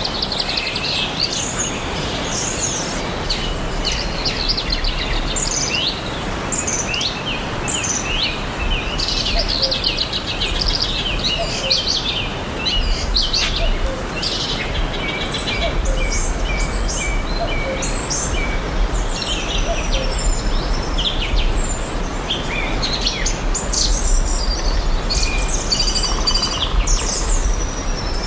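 Several songbirds chirping and singing in quick, overlapping calls and trills, over a steady even background hiss and a low rumble.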